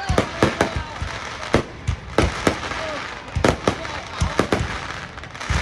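Fireworks going off: a rapid, irregular series of sharp bangs from shells bursting overhead, about a dozen in a few seconds, over the steady hubbub of a crowd of onlookers.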